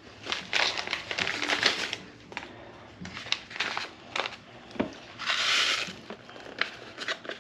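Packet of dry onion soup mix crinkled and torn open, with scattered clicks of handling, and a short steady hiss about five seconds in.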